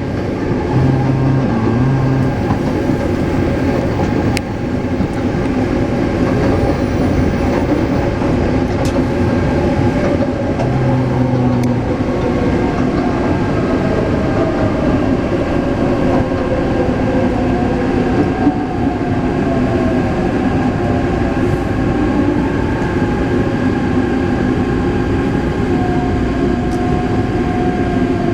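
Taipei Metro C381 electric train with software-modified propulsion running at speed: a steady rumble of wheels on track with the traction motors' whine. The whine falls slowly in pitch over the last ten seconds or so.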